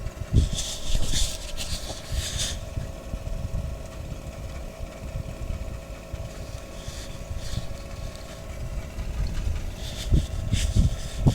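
Small gasoline engine of a prospector's dry washer running steadily, with a few short bursts of hissing noise over it.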